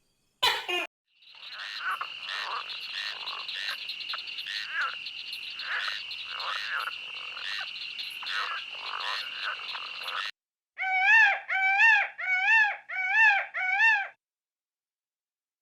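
Frog chorus: a steady high trilling with repeated croaks pulsing through it, lasting about nine seconds. It is followed by five short calls in a row, each rising then falling in pitch.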